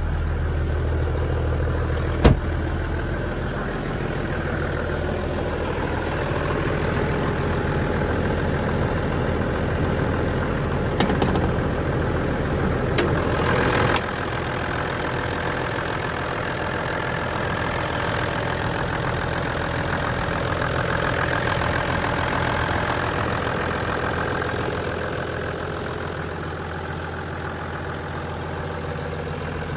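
Toyota Land Cruiser HDJ81's 1HD-T turbo-diesel straight-six idling steadily on a cold start. There is one sharp click about two seconds in and a brief rush of noise about thirteen seconds in.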